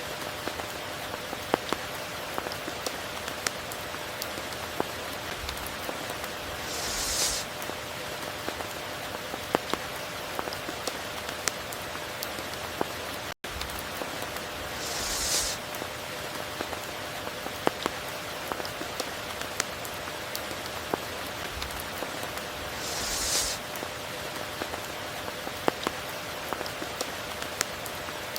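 Steady rain falling, with many sharp drips and patters on nearby surfaces and a short hissing swell about every eight seconds. The sound cuts out for a moment about halfway through.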